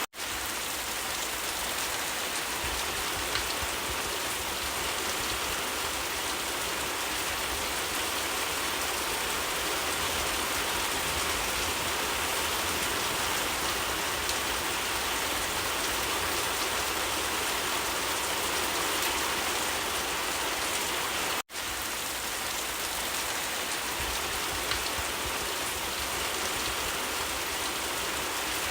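Steady, even rain falling, a constant hiss of drops. It cuts out for an instant about two-thirds of the way through, then resumes unchanged.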